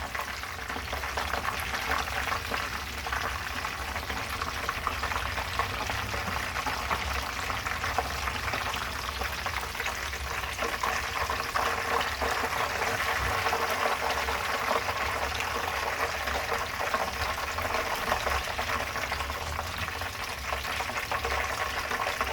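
Cornmeal-battered fish deep-frying in hot oil, a steady sizzle with crackling throughout.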